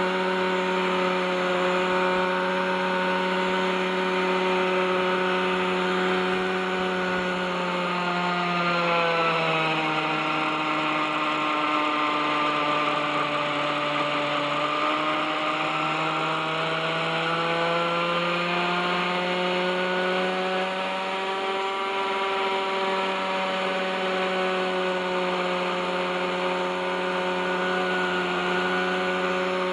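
Radio-controlled helicopter hovering on its O.S. 61SF two-stroke glow engine, a steady engine note whose pitch sags lower for about ten seconds in the middle, then climbs back. The engine runs after some thirty years without maintenance, with rusted bearings that the owner says add drag.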